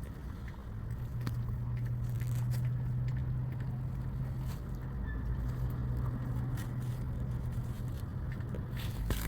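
A car engine running steadily as a low hum, with scattered small clicks and scrapes over it.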